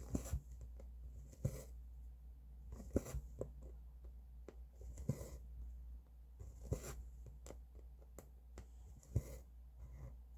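Needle and thread drawn through cross-stitch fabric: short rasping strokes with small clicks, one every second or two, over a low steady hum.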